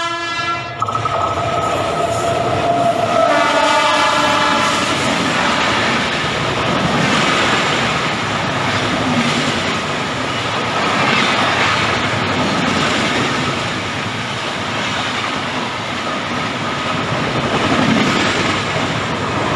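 MEMU electric train's horn cutting off about a second in, a second shorter horn blast a few seconds later, then the train running with a steady rumble and wheel clatter on the rails.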